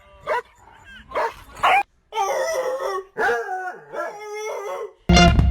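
A dog gives a few short yips, then a dog howls in three long drawn-out calls.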